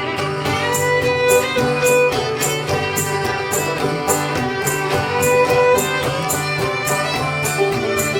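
Instrumental break of an old-time string-band song: a fiddle plays the melody in sustained bowed notes over a steady rhythm of strummed guitar chords.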